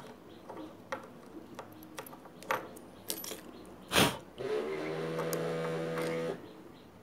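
Small metal sewing-machine parts clinking and clicking as they are handled, with one sharp click about four seconds in, followed by a steady low hum lasting about two seconds.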